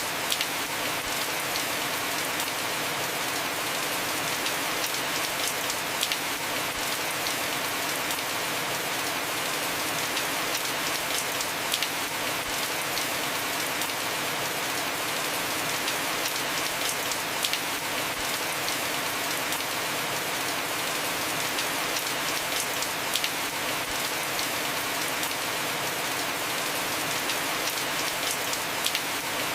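Heavy rain falling on a house roof, a steady even hiss with a sharper drop tick every five or six seconds.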